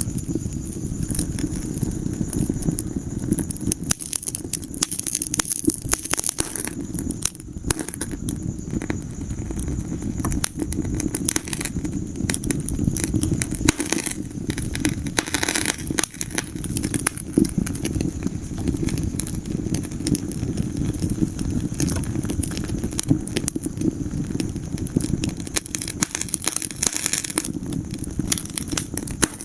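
Wood fire burning in a fireplace, crackling and popping continuously over a low rumble of the flames.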